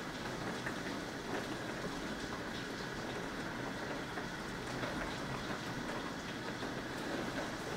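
Thunderstorm rain falling steadily: an even hiss with faint scattered drop ticks.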